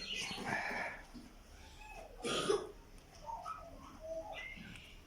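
A person's short cough about halfway through, with a few faint bird chirps around it.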